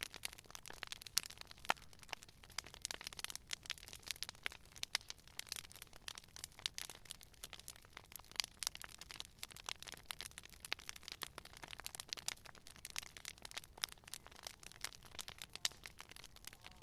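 Wood fire crackling and popping: dense, irregular snaps over a faint low hiss.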